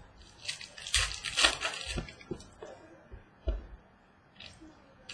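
Trading cards being handled on a table: a rustle of cards sliding against each other for about a second and a half, then a few soft taps as cards are set down.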